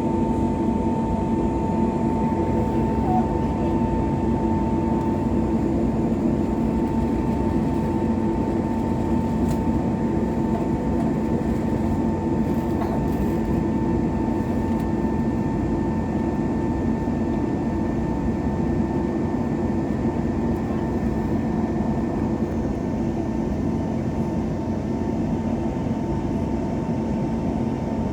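Pratt & Whitney PW1100G geared turbofan engines of an Airbus A321neo heard from inside the cabin, running steadily: a constant drone with a steady high whine over it.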